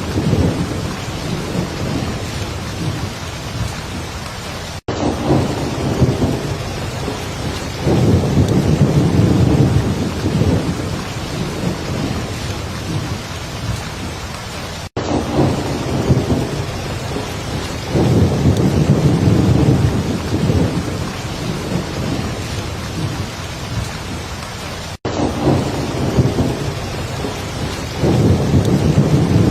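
Heavy rain falling steadily, with rolling thunder rumbles swelling up about every ten seconds. The sound cuts out for an instant three times, evenly spaced, like the seam of a looped recording.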